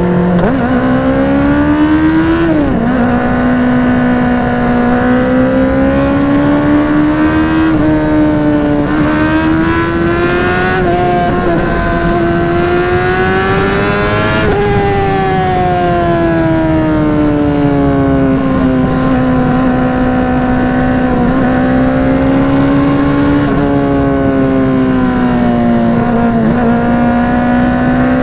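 Honda CBR600RR's inline-four engine with a Yoshimura exhaust, running at high revs while riding, its pitch climbing and easing as the throttle and gears change. It drops sharply about two and a half seconds in and again about halfway through.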